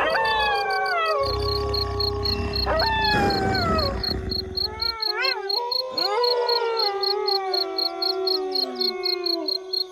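A pack of wolves howling in chorus: several long howls overlap and slide down in pitch, with short rising-and-falling yips about halfway through. Crickets chirp in a steady, fast pulse behind them.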